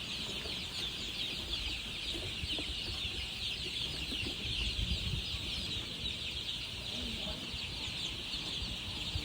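A large brood of baby chicks peeping all at once: a dense, continuous chorus of high, short chirps.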